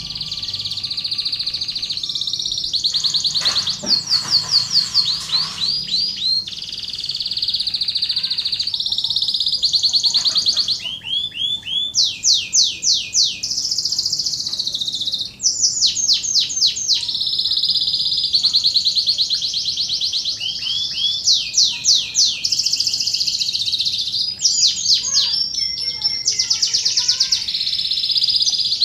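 Domestic canary singing a long continuous song: rapid trills of repeated high down-slurred notes alternating with buzzy rolls, switching phrase every second or two.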